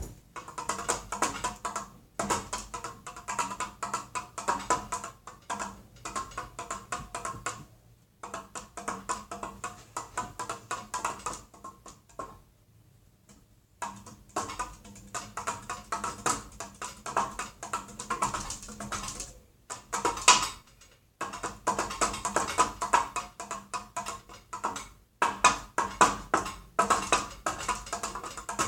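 Ceiling fan struck as a makeshift percussion instrument: runs of rapid, uneven taps and knocks with a slight ring, broken by short pauses and one near-silent gap of about two seconds midway.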